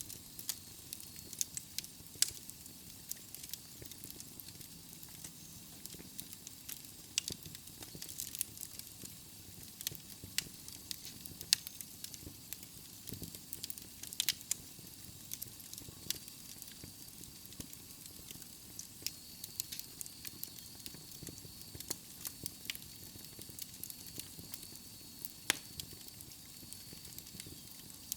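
Wood fire burning in a fireplace: irregular sharp crackles and pops from the burning logs over a soft steady hiss.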